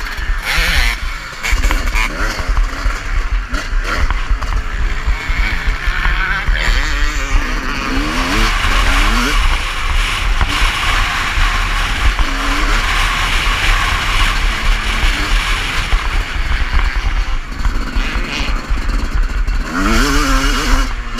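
Motocross bike engine revving up and down, its pitch rising and falling again and again, heard onboard with heavy wind rumble on the camera microphone.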